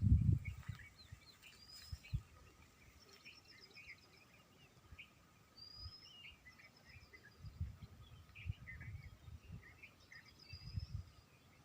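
Several small birds chirping and twittering, with short rising and falling calls and quick trills scattered all through. A few soft low thumps come and go, loudest at the very start.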